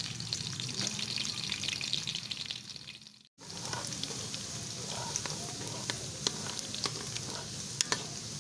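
Hot oil sizzling and crackling as chopped onion fries in an aluminium pressure cooker, with sharp spits and the clicks of a wooden spatula stirring against the pot. The sound drops out briefly about three seconds in, then carries on.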